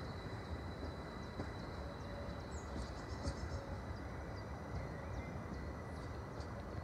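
Electric train running away down the line, a low steady rumble, with small birds chirping now and then.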